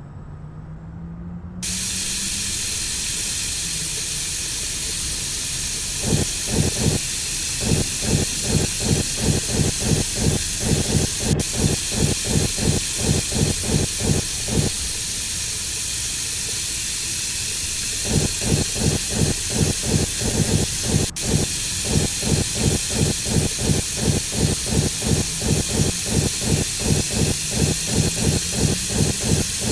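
Girbau HS4012 commercial washing machine taking in water with a steady hiss that switches on suddenly. Its drum turns the wet load in rhythmic pulses of about three a second, stopping for a few seconds and starting again, as in the back-and-forth tumbling of a wash or rinse phase.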